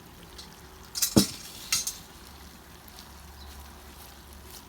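A few metal clinks and a sharp knock from a basin and small metal cups being handled while they are filled with melted candle wax and sawdust. The loudest knock comes about a second in, with another clink just before the two-second mark.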